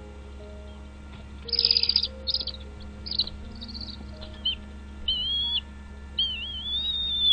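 Small bird chirping and whistling, with faint background music. A rapid burst of chirps comes about one and a half seconds in, then short chirps, and two warbling whistled calls near the end.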